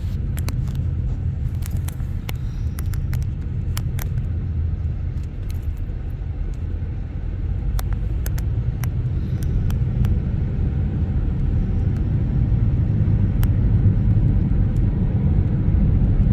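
Car driving along a road: a steady low rumble of engine and road noise, with scattered light clicks, most of them in the first few seconds.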